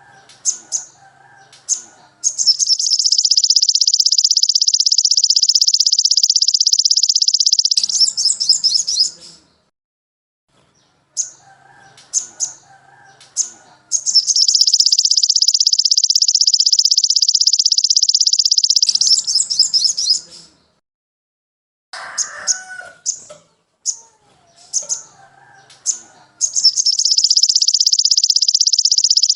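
Recorded songbird tutoring material: a phrase of short, sharp high chirps with softer lower warbling notes, ending in a long, very rapid high-pitched trill of about five seconds. The phrase repeats three times with brief gaps between.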